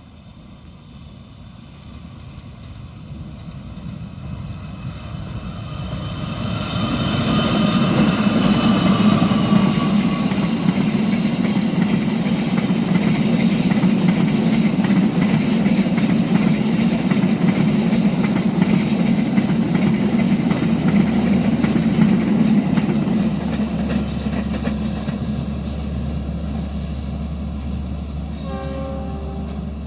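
Diesel-hauled train approaching and passing, its horn sounding with a slight drop in pitch as the locomotive goes by. Then a long, loud run of carriages rumbling and clacking over the rail joints, easing off near the end.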